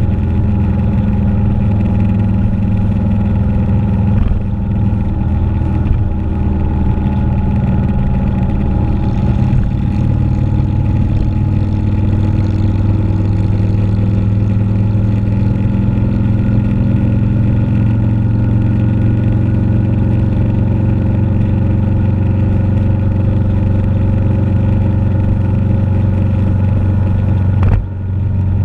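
Motorcycle engine running steadily while riding, its pitch drifting slowly up and down, with a brief dip in level near the end.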